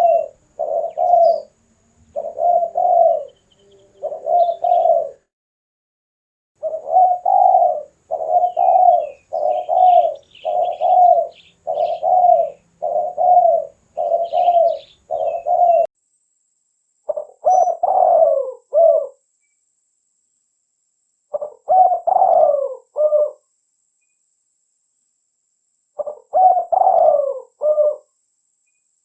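Spotted dove (tekukur) cooing: a run of short, evenly spaced coos, with a brief pause about five seconds in. In the second half come three separate longer coo phrases, a few seconds apart. Faint high chirps of a small bird sound behind the coos in the first half.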